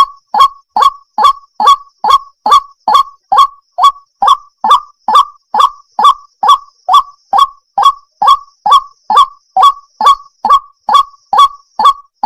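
Water hen calling: a fast, even series of short loud calls, about two and a half a second, each rising in pitch.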